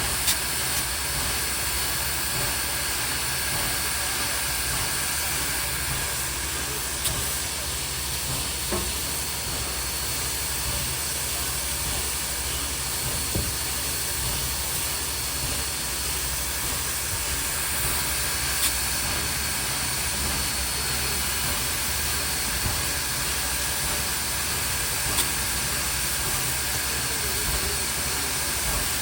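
Steady hiss over a low rumble from a standing locomotive, with a few faint clicks.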